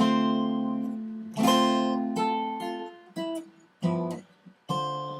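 Guitar playing jazz chord-melody voicings, starting from a D minor 7 chord with a C on top. A chord is struck at the start and left to ring, another comes about a second and a half in, and three shorter chords follow near the end.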